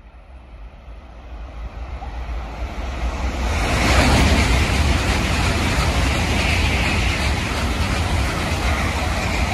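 N700A Shinkansen train passing through a station without stopping: a rushing noise builds over the first three or four seconds as it approaches, then stays loud and steady, with a deep rumble under a hiss of air and wheels, as the long train of cars sweeps by.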